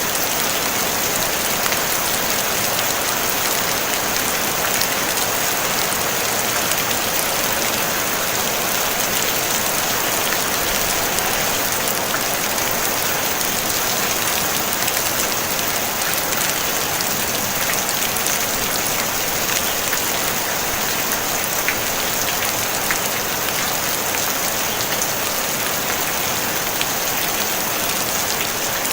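Steady rain falling on a tin roof: an even hiss of drops with scattered individual drop ticks, no thunder.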